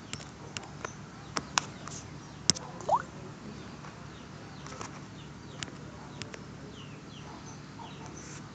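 Faint background with a few sharp clicks in the first few seconds and faint bird calls, including one short rising call about three seconds in.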